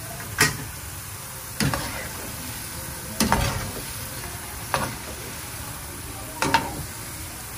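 Gulab jamun dough balls frying in hot oil with a steady sizzle. A metal slotted spoon or spatula scrapes and knocks against the pan about five times as the balls are turned and lifted out.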